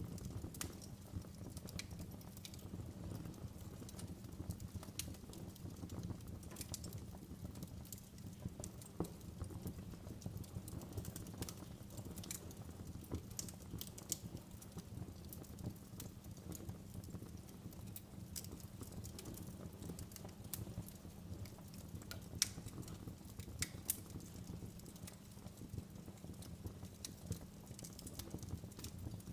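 Wood fire burning in a fireplace, with a steady low rumble and irregular crackles and pops throughout.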